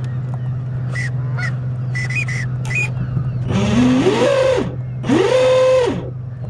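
Geese honking: two long, loud honks about a second each, a little past the middle, over a steady low hum, with a few short high calls before them.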